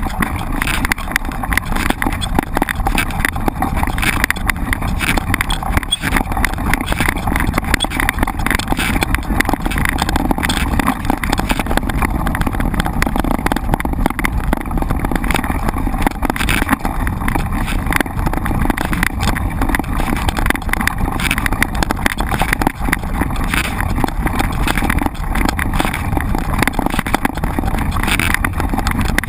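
Mountain bike ridden over rough ground: a steady rush of wind and rolling noise with frequent small knocks and rattles.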